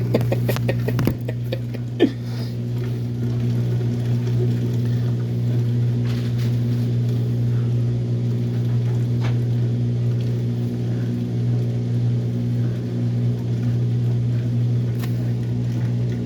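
Washing machine running mid-cycle: a steady low motor hum with a few faint knocks in the first two seconds.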